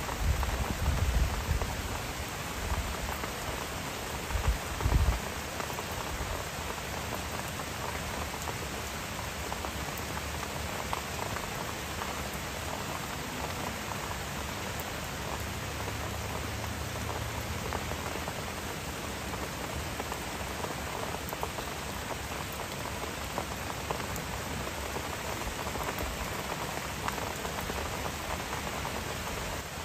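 Steady rain falling, an even hiss of drops on the ground and foliage. A few low bumps stand out in the first five seconds.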